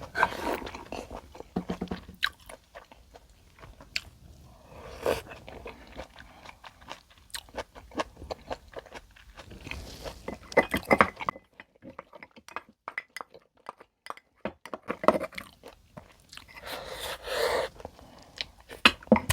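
Close-miked eating: crunchy bites and chewing of food, in irregular bursts of sharp clicks, with a pause of a few seconds in the middle.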